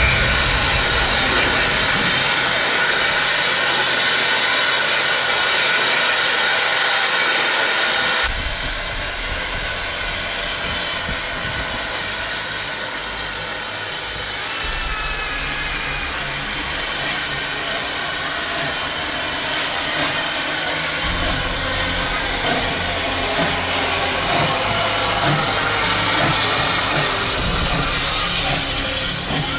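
Steam locomotive hissing loudly as it releases steam. The sound changes abruptly about eight seconds in and again about two-thirds of the way through.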